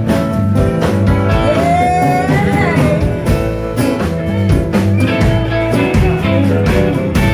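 Live blues band playing an instrumental break: a guitar lead with pitch bends over bass and a steady drum beat.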